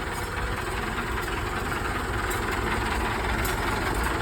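Massey Ferguson 385 tractor's diesel engine idling steadily with a low, even chug.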